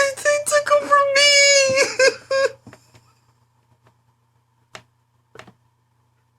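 A man wailing in a long, high, held sob that wavers and breaks off about two and a half seconds in, followed by two short sharp breaths near the end.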